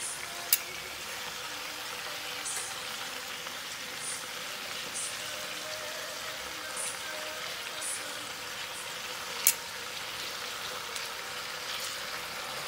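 Chicken wings and pork slices frying in oil with garlic in a pan, a steady sizzle with small spattering pops. Metal tongs clack sharply against the pan twice, once about half a second in and again about three-quarters of the way through.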